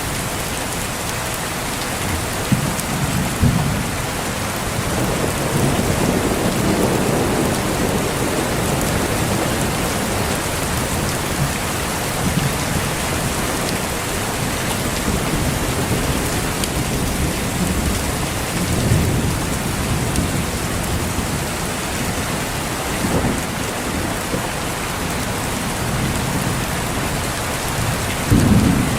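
Steady heavy rain with rolling thunder: low rumbles swell several times, and a stronger thunderclap comes near the end.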